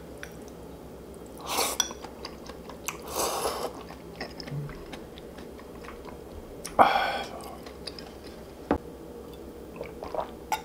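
A person chewing food close to the microphone, in a few separate bursts; the loudest comes about seven seconds in.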